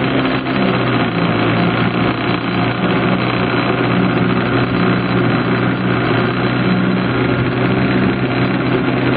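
An engine running steadily: a constant low hum that holds its pitch throughout.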